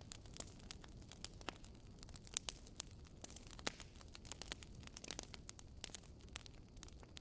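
Wood fire crackling in a fireplace: irregular sharp pops and snaps over a low steady hiss, a few louder pops about two and a half and three and a half seconds in.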